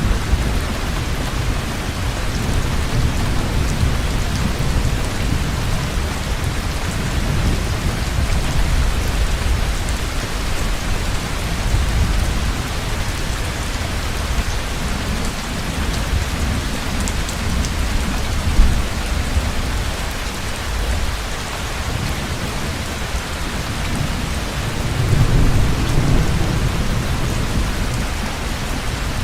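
Heavy rain pouring steadily with low thunder rumbling under it, the rumble swelling again near the end. A single sharp tap stands out about two-thirds of the way through.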